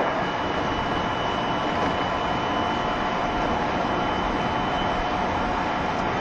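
Running noise inside a JR Shikoku 7200 series electric train cruising between stations: a steady rumble of wheels on rail with a faint steady high whine, and a single short click right at the start.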